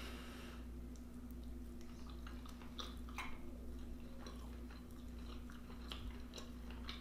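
Close-miked chewing of pepper steak and rice, with irregular wet mouth clicks and smacks, over a steady low hum.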